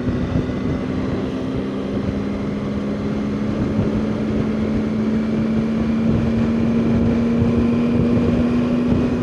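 Motorcycle engine running steadily while riding, its pitch creeping up slightly as it goes, with wind buffeting the microphone.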